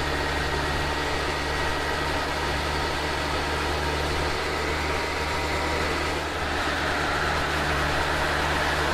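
2006 Suzuki GSX1300R Hayabusa's inline-four engine running at a steady cruise, with wind and road noise.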